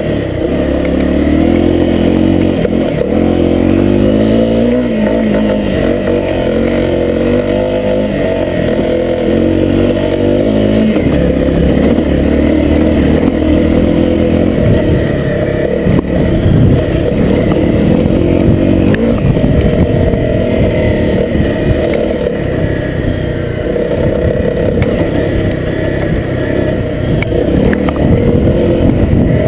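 Honda CRF250L's single-cylinder four-stroke engine running under way, its revs rising and falling with throttle and gear changes. After about ten seconds the clear engine note gives way to a rougher, choppier rumble.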